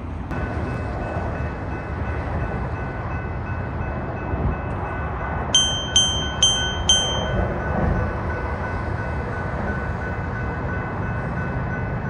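A train passing with a steady rumble and a thin, steady high whine. Just past the middle come four quick bell-like rings, about half a second apart.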